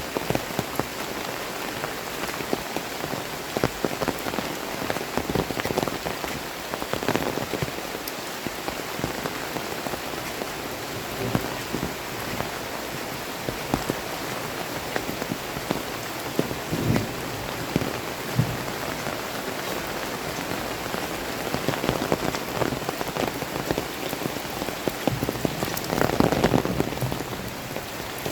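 Heavy rain falling steadily, with many individual drops striking close by, and a few brief swells in loudness, the biggest near the end.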